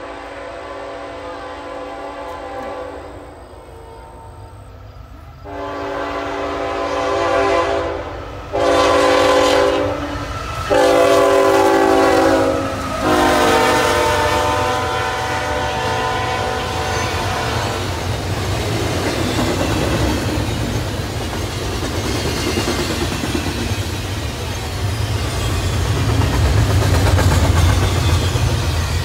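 A CSX freight locomotive's multi-note air horn sounds four blasts, long, long, short, long, the standard grade-crossing signal, as the train approaches and passes. The blasts are loudest in the middle of the sequence. After that come double-stacked container well cars rolling by with a steady rumble and the clack of wheels over rail joints, growing louder near the end.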